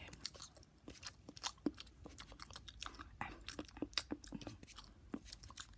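Close-miked ASMR mouth sounds: a fast, irregular run of wet clicks and smacks from the tongue and lips, several a second.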